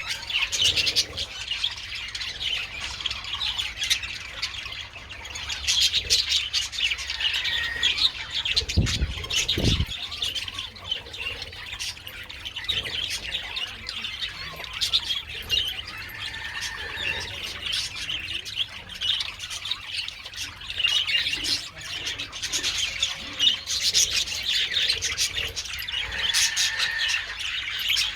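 A colony of budgerigars chattering and squawking continuously, many birds at once. A brief low thump or rumble sounds about nine seconds in.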